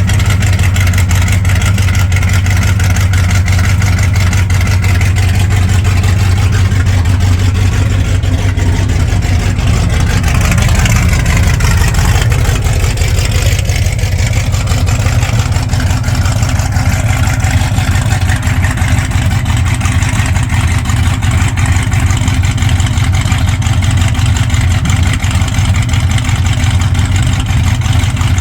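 An engine running steadily at idle, with a loud, even low hum.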